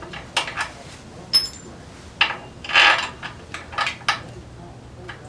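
Short metallic clanks and rattles of hand tools and steel parts being handled, several in quick succession, with a longer rattle about three seconds in.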